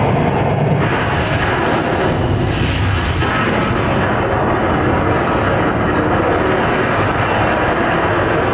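Loud, steady rumbling roar of disaster sound effects from a film soundtrack, played over theatre speakers, with hissing rushes about one and three seconds in.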